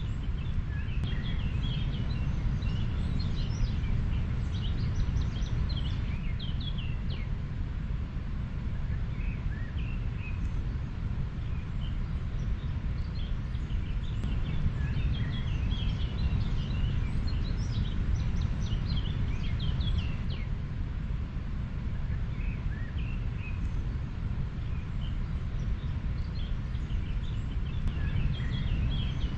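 River water flowing as a steady low rushing noise, with small birds chirping in short high calls that come in spells near the start, through the middle and near the end.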